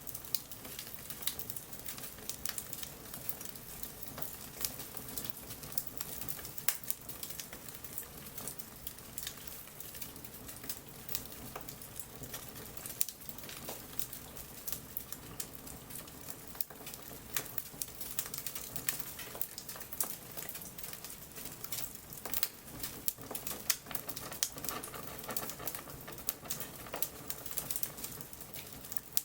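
Wood bonfire crackling, with irregular sharp pops and snaps over a steady hiss.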